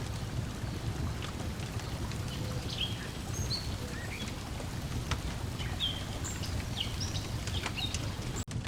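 Lakeside nature ambience: a steady low wash of water lapping, with a wood fire crackling in sharp little pops and birds chirping briefly now and then. The whole bed cuts out for an instant near the end.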